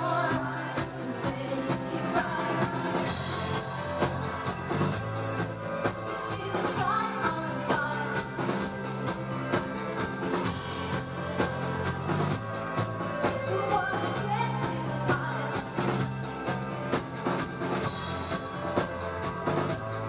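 Live band music: a drum kit keeps a steady beat under bass and other pitched instruments.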